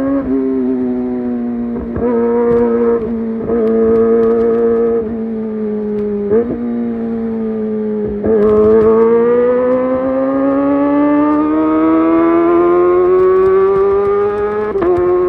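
Kawasaki ZX25R's 249 cc inline-four running at high revs through a Leovince GP Evo high-mount exhaust, a high-pitched exhaust note. The note holds fairly steady with a few brief dips for the first half, then rises steadily over the last several seconds as the engine revs climb.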